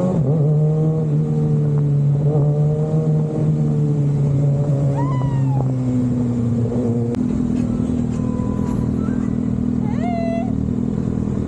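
Motorcycle engine idling steadily, its pitch shifting slightly about six and seven seconds in. Over it come a few short, high, rising-and-falling calls, around five, eight and ten seconds in.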